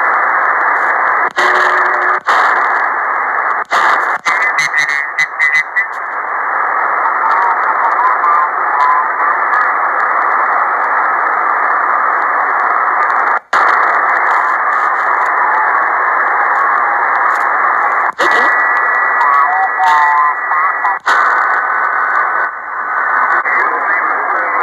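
Shortwave amateur radio receiver on single sideband hissing with band static, under faint, garbled sideband voices and a few steady heterodyne whistles. The hiss breaks off briefly in clicks and dropouts several times.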